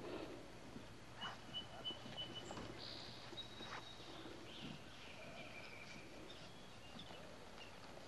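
Birds singing faintly outdoors: a quick run of short, repeated high notes, then a couple of held high whistles and scattered chirps, with a few soft knocks and rustles in the background.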